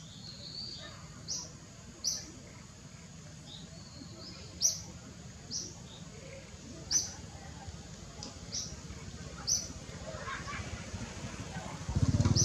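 A bird chirping: short high chirps repeated every second or two. Near the end a much louder low motor rumble begins.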